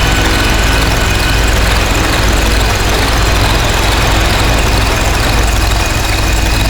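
Dense, loud harsh-noise drone from DIY synths run through distortion pedals: a heavy low rumble under a wall of hiss, with a thin steady high whine that fades out near the start and returns near the end.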